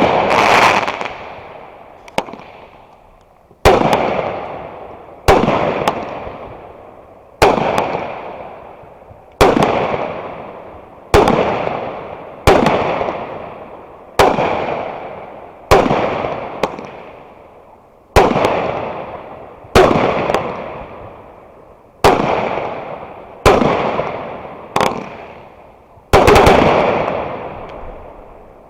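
Fireworks going off in a steady sequence: a loud bang every one and a half to two seconds, about fifteen in all, each followed by a long fading tail.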